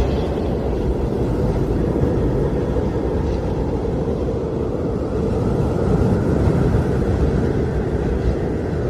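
Blizzard wind blowing as a steady, deep rush of noise, swelling slightly a little past the middle.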